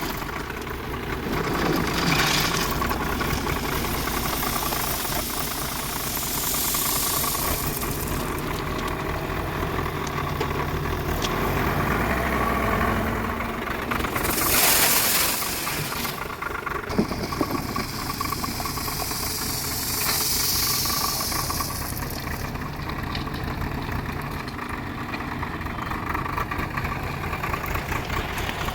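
Diesel engine of a JCB backhoe loader running steadily while it works, with several short rushing noises over it that come and go.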